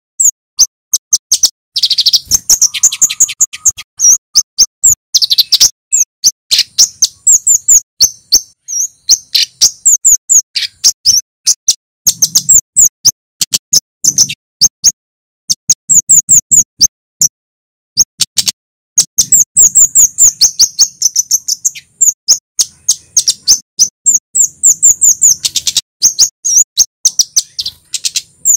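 Male kemade flowerpecker (cabe-cabean) calling: rapid runs of sharp, high 'cit' chips in bursts, with short pauses between runs.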